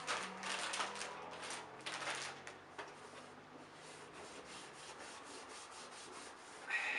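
Hand rubbing and scrubbing to clean a part taken out of a Hoover Senior upright vacuum cleaner. There are several louder strokes over the first couple of seconds, then lighter, quicker rubbing.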